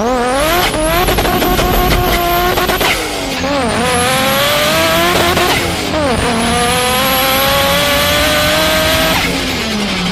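A car engine accelerating hard through the gears. The pitch climbs, drops at a gear change about three seconds in and again about six seconds in, climbs once more, then eases off near the end.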